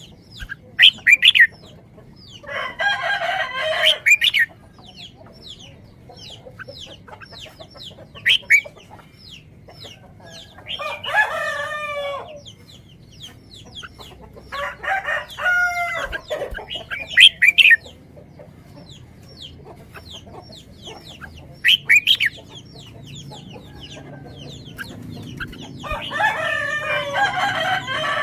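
Roosters crowing four times, with long calls of a second or two each, and short clucks and squawks from chickens between the crows.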